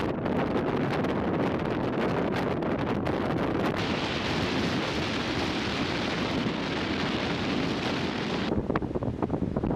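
Wind buffeting the microphone over a steady rushing noise. The rush turns hissier about four seconds in and drops back shortly before the end.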